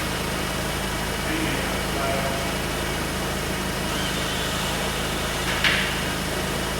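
Steady low mechanical hum, with a single short metallic clank about five and a half seconds in.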